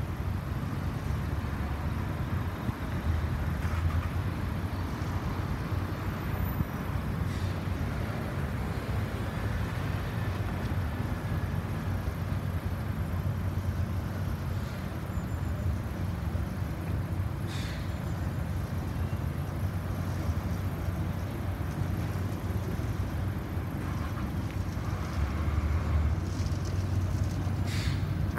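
Car engine running steadily at idle, a low steady rumble.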